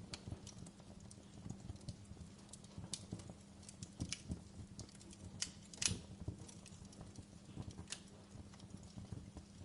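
Wood fire burning in a fireplace, crackling with irregular sharp pops, the loudest a little before the six-second mark, over a steady low hum.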